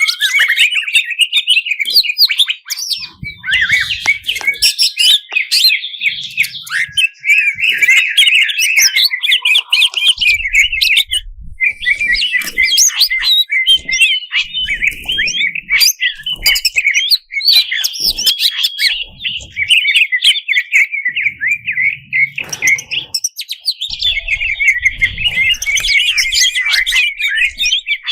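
Cucak ijo (greater green leafbird) of the cucak cungkok type singing a continuous, rapid run of chirps, trills and whistles with mimicked phrases of other birds worked in, in a fired-up, aggressive mood.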